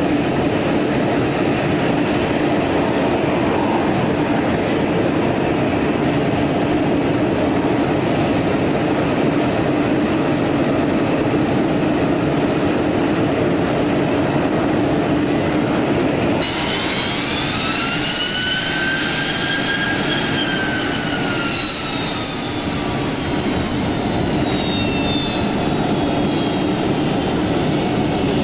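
Jet airliner engines: a steady, heavy rumble, then, after an abrupt change about two-thirds of the way in, a high engine whine of several tones that rises, peaks and slowly falls as the aircraft passes.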